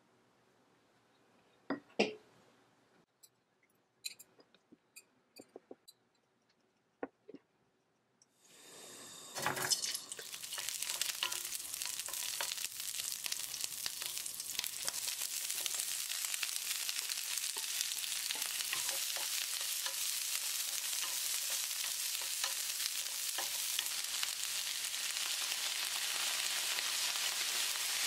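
A few scattered light clicks and knocks, then a loud knock about nine and a half seconds in as cocktail sausages go into a hot oiled pan, followed by steady frying sizzle with the scrape and clicks of a wooden spoon stirring them.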